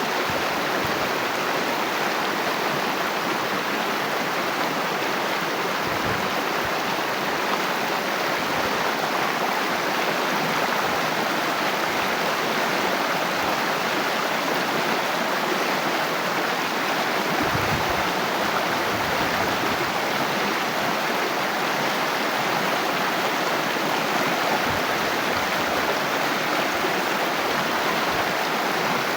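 Water flowing steadily in a stream, an even, unbroken rushing, with a few brief low rumbles about six seconds in and again about two-thirds of the way through.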